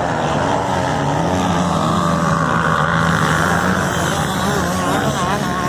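Motocross bikes racing, several engines running at high revs together, their pitch rising and falling as the riders work the throttle.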